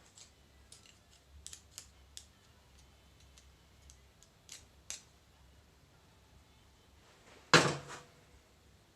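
Small metal parts and tools being handled during reassembly of a hydraulic control valve: scattered light clicks and taps, then one loud clank with a short ring about seven and a half seconds in.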